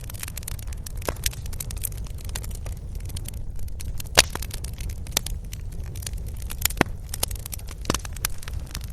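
Wood fire crackling, with irregular sharp pops over a steady low rumble; the loudest pop comes about four seconds in.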